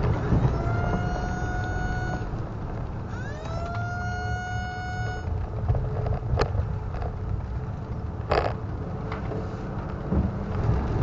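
Outdoor four-horn tornado warning siren sounding twice. Each time its pitch rises quickly and then holds for about two seconds before cutting off, over the low steady noise of a vehicle. Two sharp clicks come later on.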